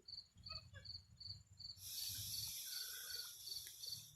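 Cricket chirping steadily, about two to three short high chirps a second. From about two seconds in, a louder hiss rises over it and stops at the end.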